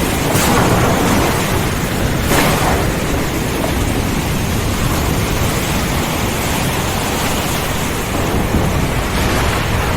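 Thunderstorm: a steady hiss of heavy rain over a continuous low rumble of thunder, with two brief louder surges, about half a second in and near two and a half seconds.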